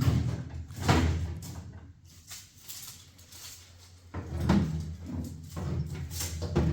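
A few dull knocks and thumps, the loudest about a second in, with others around four and a half seconds and near the end, over a steady low hum.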